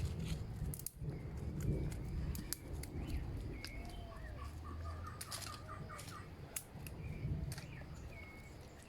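Birds calling in the background: short arching chirps and a quick run of repeated notes about four to five seconds in. Scattered sharp clicks and rustling, as of dry twigs and leaves being handled, sound alongside.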